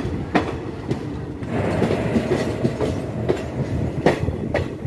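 Passenger train coach running on the track, heard from its open door: a steady rumble and rush of wheels and wind, with a few sharp wheel clacks on the rails, one about half a second in and two near the end.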